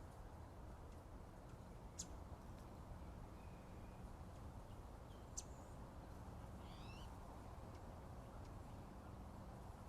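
Faint, sparse wild bird calls: a sharp high chip about 2 seconds in and another about 5 seconds in, a faint short whistle between them, and a quick run of three or four short rising notes about 7 seconds in, over a low steady background hum.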